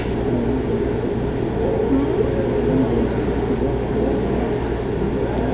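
A steady low rumble with an indistinct murmur of voices, heard from inside through glass.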